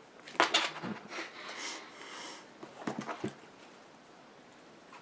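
Trading cards being handled on a table: a few sharp taps as cards are put down, a brief sliding rustle, and another quick cluster of taps about three seconds in.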